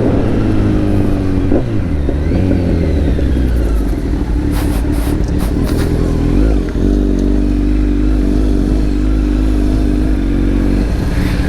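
Kawasaki superbike engine through an Akrapovic exhaust, running loudly at fairly steady revs, with a brief dip in pitch about a second and a half in. Several short sharp cracks come around the middle.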